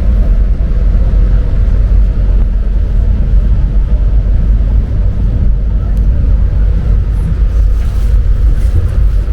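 Alishan Forest Railway train's diesel locomotive running with a steady, loud low rumble as the train pulls away from the switchback, with a few faint clicks near the end.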